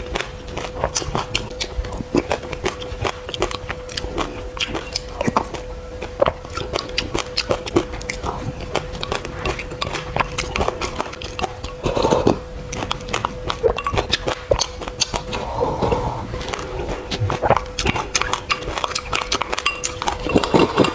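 Close-miked chewing of a mouthful of sesame seeds: a dense stream of small crunching clicks, louder wet mouth sounds about twelve and sixteen seconds in, over a steady tone.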